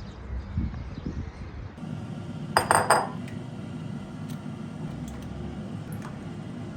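Dishes and cutlery clinking: a quick cluster of clinks about two and a half seconds in, then a few light clicks.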